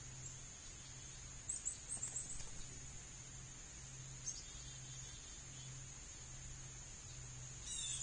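Small birds giving short high chirps, a quick cluster about a second and a half in, a single one near the middle and a fast falling run near the end, over a steady high drone of insects.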